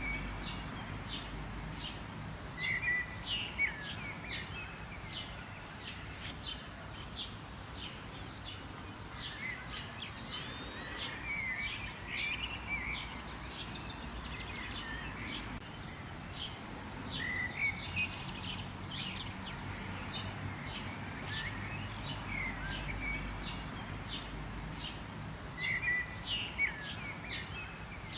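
Several birds chirping and singing in short repeated calls over a steady background hum, with louder bursts of song a few times.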